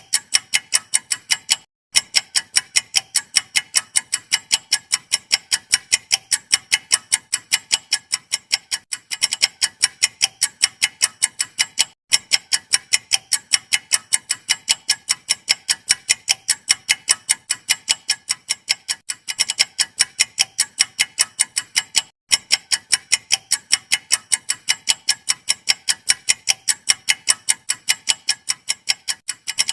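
Clock-style ticking sound effect: rapid, even ticks, several a second, breaking off for a moment a few times as the loop restarts.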